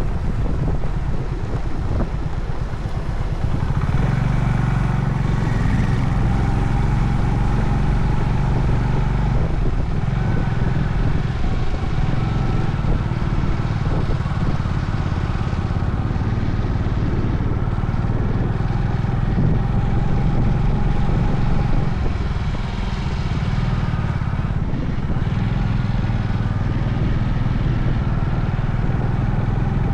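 Honda CB350 Highness's air-cooled single-cylinder engine running steadily on the move. The engine gets louder about four seconds in and eases briefly about two-thirds of the way through.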